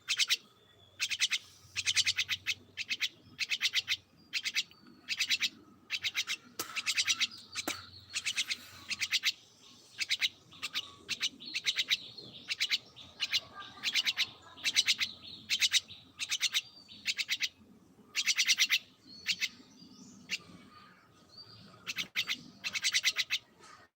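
Small pet birds chirping: quick bursts of rapid high-pitched chirps, one burst after another with short gaps between.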